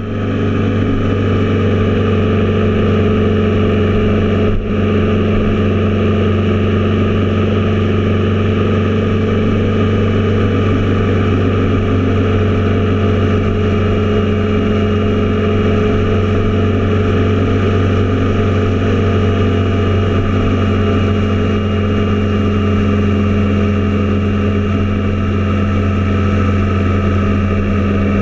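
Triumph Tiger Explorer's three-cylinder engine running steadily at constant revs, with one brief dip about four and a half seconds in.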